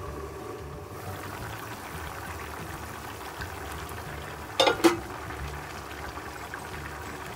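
Chicken afritada stew bubbling steadily in a covered frying pan. About four and a half seconds in, the metal lid clinks twice against the pan as it is lifted off.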